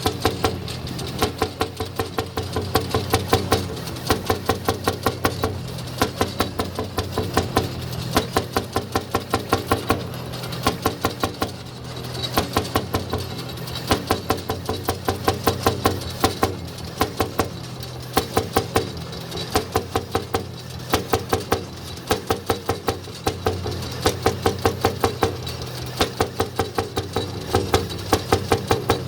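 Jelbart tractor's single-cylinder hot-bulb engine running, its exhaust giving sharp, evenly spaced beats in runs of several, with slightly quieter stretches between runs.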